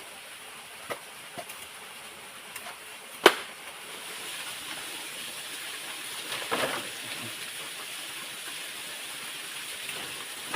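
Steady rush of water from a waterfall. A few light clicks, then one sharp knock about three seconds in, and a brief rustle later on.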